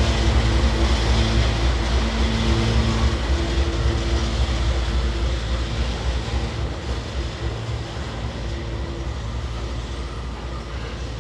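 Empty pulp freight train rolling past: a steady rumble of wheels on rail with a low hum, growing gradually quieter in the second half.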